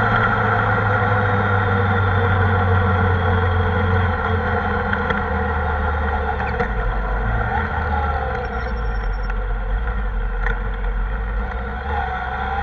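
Kawasaki ZR-7S motorcycle's inline-four engine running steadily under way. Its note drops about four seconds in and stays lower through the middle, then starts rising again near the end as the bike accelerates.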